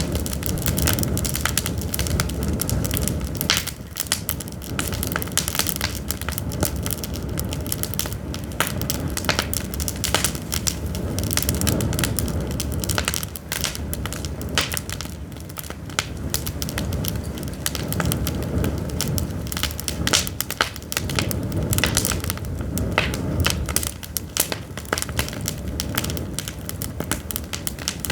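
Pine firewood burning, crackling and popping continuously over a low rumble of the flames.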